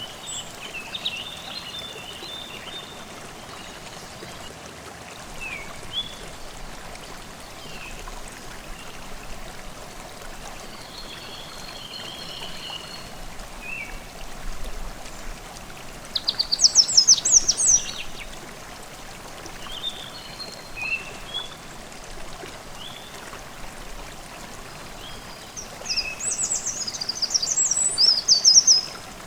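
A forest stream babbling steadily while songbirds call throughout. Two bursts of rapid, high trilling, about halfway through and again near the end, are the loudest sounds.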